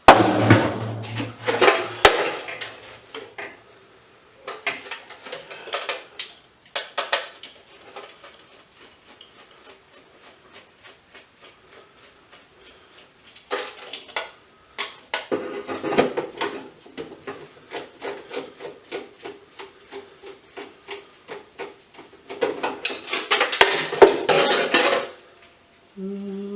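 Small metal scrap parts clinking and clattering as they are handled and dropped. The clatter comes in dense bursts near the start, about midway and near the end, with scattered clicks between.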